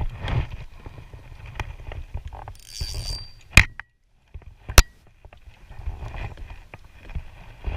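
Handling noise aboard a fishing kayak: small clicks and rustles over a low rumble, with two sharp, loud knocks about three and a half and five seconds in.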